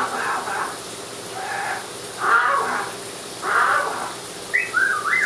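Amazon parrot giving about four short, raspy calls, then a few quick rising and falling whistles near the end, over the steady hiss of a running shower.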